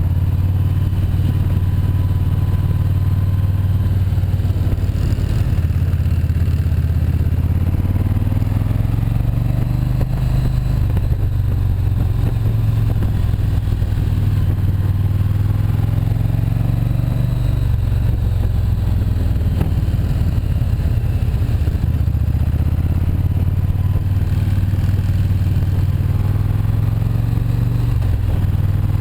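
Motorcycle engine running under way, heard from on the bike, its low note rising and falling slightly with throttle changes.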